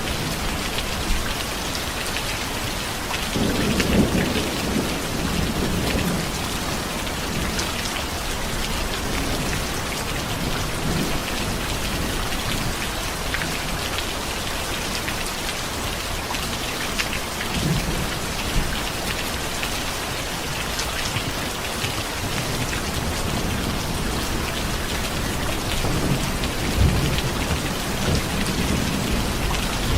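Steady heavy rain falling, with low rolls of thunder rumbling about four seconds in and again near the end.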